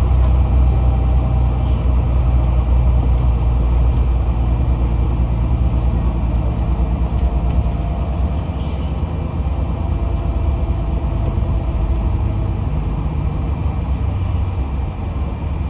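Yutong ZK6128HG diesel city bus running between stops, heard from inside the cabin: a steady low engine and road rumble that eases slightly toward the end.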